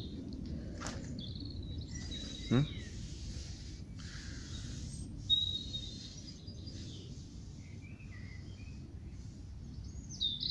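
Birds chirping and whistling now and then over a steady low background rumble, with a short rising squeak about two and a half seconds in.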